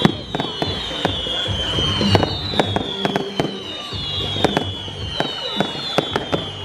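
Fireworks going off: a rapid series of sharp bangs and cracks, with several high whistles that slowly fall in pitch, one after another.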